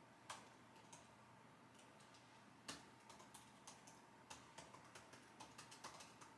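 Computer keyboard typing: a few isolated key presses, then an irregular run of keystrokes from about a third of the way in.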